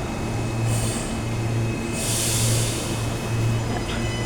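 NGR electric multiple-unit train pulling away from the platform: a steady rumble with a low hum that swells about once a second, faint high steady tones, and a short hiss about two seconds in.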